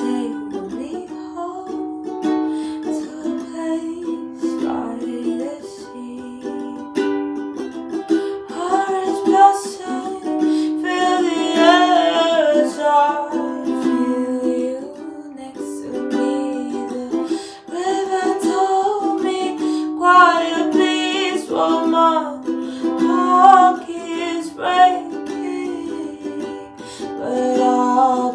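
Ukulele playing a song accompaniment, with a singing voice coming in over it about eight seconds in.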